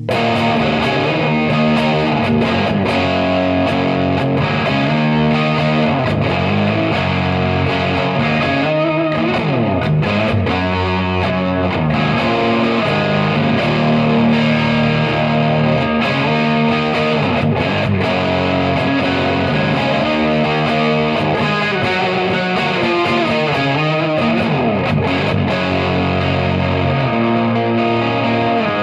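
Gibson Les Paul electric guitar played through a Third Eye overdrive pedal into a Marshall amp: distorted chords and notes held and left to ring, with several sliding notes in between.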